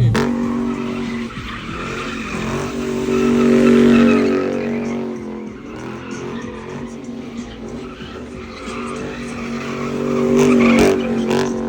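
Car engine held at high revs while its tyres spin and squeal in a burnout. The noise swells twice, about four seconds in and again near the end.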